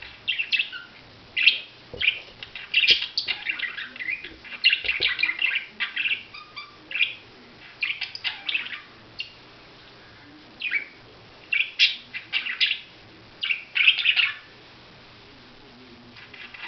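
Budgerigars chirping and chattering in quick, irregular bursts of short high chirps, broken by a couple of short pauses.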